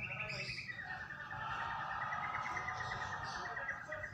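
White-rumped shama (murai batu) singing: a short whistled note, then from about a second in a long, fast trill held near one pitch that rises slightly and falls away toward the end.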